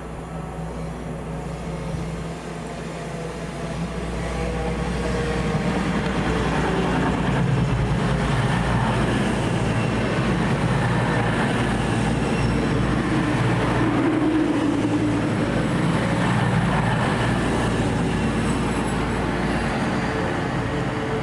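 Diesel train passing through a station, growing louder over the first few seconds and then staying loud and steady, with a low engine note under the rumble of the wheels.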